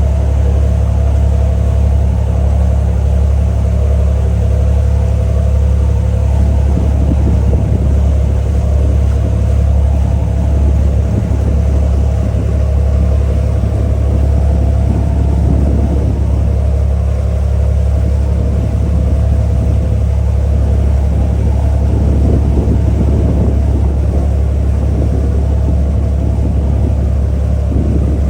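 Ferry engine running steadily, heard on board: a loud, unchanging low drone with a steady hum above it.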